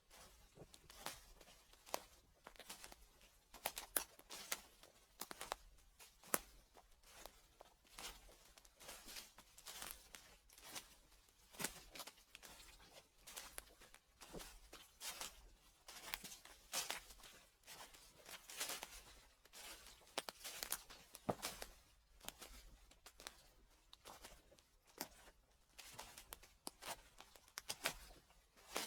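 Footsteps crunching through dry fallen leaves, each step a crackling rustle, about one step a second.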